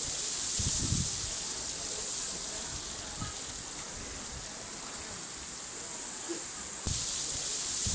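Water flowing and splashing, with a steady hiss and a few low, dull thuds about a second in and again near the end.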